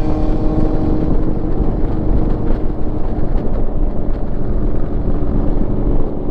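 Motorcycle engine running steadily while riding, a low rumble with a steady hum.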